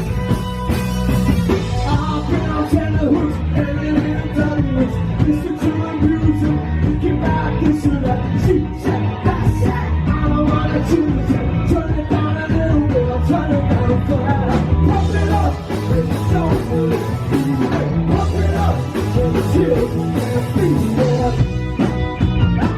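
Live rock band playing loud, with a singing voice over guitars and drums.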